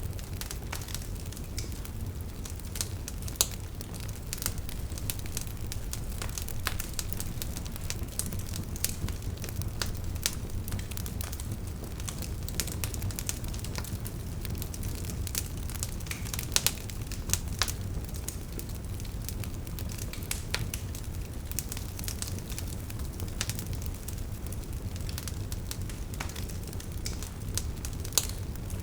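Wood fire burning: a steady low rumble of flames with irregular sharp crackles and pops from the burning logs, a few louder snaps among them.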